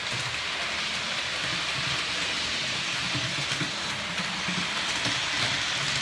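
Two OO gauge Hornby HST model trains running round the track: a steady whirring rush of their motors and wheels on the rails, a racket with no breaks.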